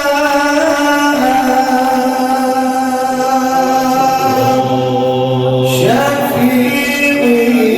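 Male voices singing a sustained, melismatic devotional Sufi chant in praise of the Prophet, held notes gliding between pitches, with a low drone beneath the singing from about four seconds in.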